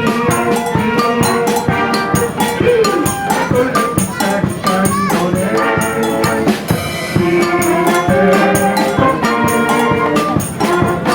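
Live band music with a steady drum beat and melodic instruments.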